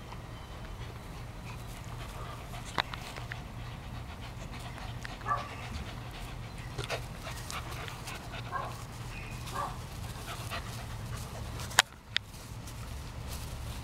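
Dog panting, with a few sharp clicks and a steady low hum underneath; two loud clicks come close together about two seconds before the end.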